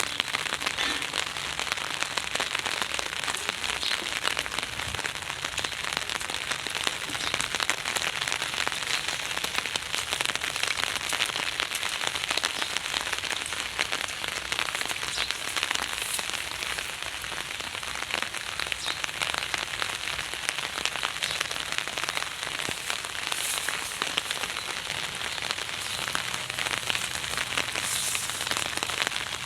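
Heavy rain pouring down, a dense steady patter of drops hitting surfaces.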